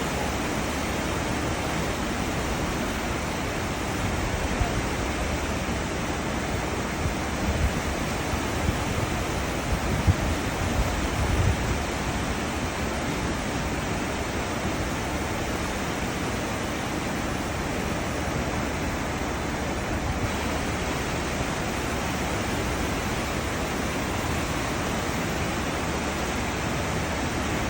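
Steady rushing and churning of water in a cruise ship's wake, with a few low thumps in the middle.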